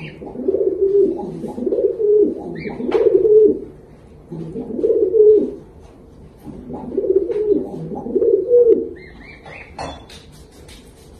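A bird calling: about six low, cooing calls of about a second each, repeated every second or two, with a few short high peeps between them.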